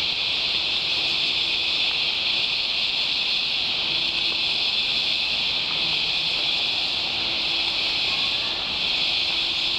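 Cicadas screaming in a steady, unbroken high-pitched chorus in Australian rainforest, loud enough to be near-deafening.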